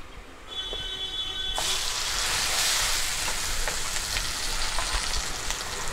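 Ground masala paste hitting hot coconut oil in a clay pot and frying with a steady sizzle. The sizzle starts suddenly about a second and a half in, with a few light clicks of the bowl and pot.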